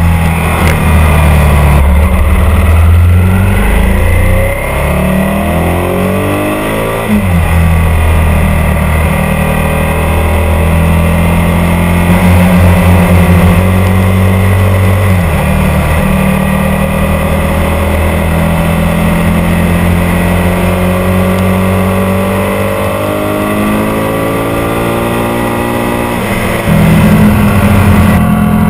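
Ducati 851's liquid-cooled 90-degree V-twin running on the road, its pitch rising and falling with throttle and gear changes and growing louder again near the end.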